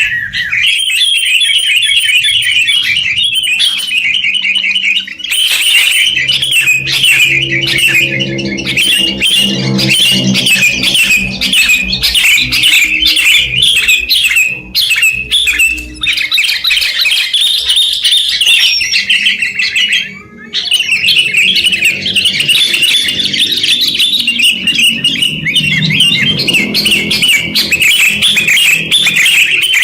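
A crowd of sooty-headed bulbuls chirping and twittering nonstop in quick, overlapping calls, with a short lull about twenty seconds in.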